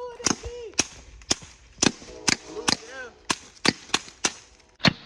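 A gun fired in quick repeated shots, about two a second, around ten shots in all, each a sharp crack.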